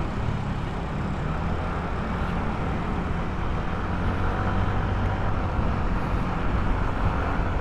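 Steady motor-vehicle and traffic noise: a constant low engine hum with road rumble and no single event standing out.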